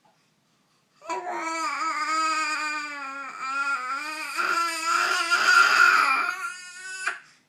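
A high, wordless voice making one long wavering vocal sound, starting about a second in and lasting about six seconds, with its pitch bending up and down.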